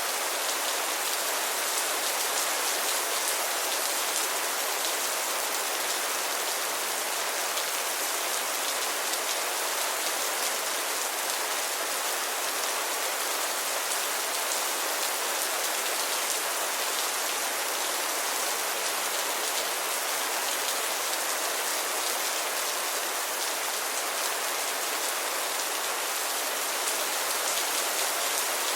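Steady rainfall, a dense even hiss of drops with fine crackling patter.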